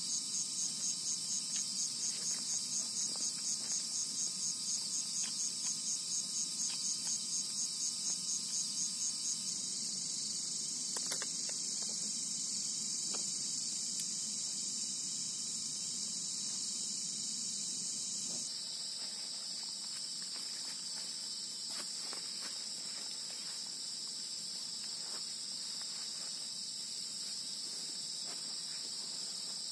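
Insects trilling at high pitch, pulsing at about four times a second, then settling into a steady drone. About two-thirds of the way in, a slightly lower-pitched steady trill takes over. A few faint ticks sound here and there.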